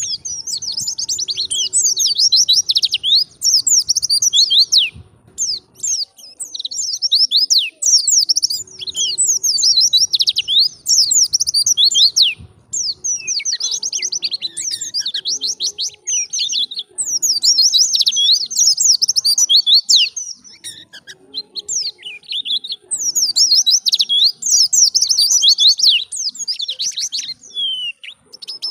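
A white-eye (pleci) singing in long, fast, high-pitched twittering phrases of several seconds each, broken by short pauses.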